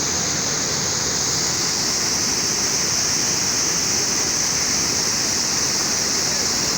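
Steady, even rush of a large waterfall, the Narmada River's Dhuandhar Falls, pouring without pause, heavy on hiss.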